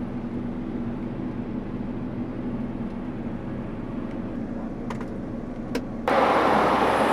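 CLAAS Xerion 5000 tractor engine running steadily under load as it pulls a HORSCH Terrano cultivator through the soil. About six seconds in the sound turns suddenly louder, with a rushing noise over the engine drone, just after a couple of short clicks.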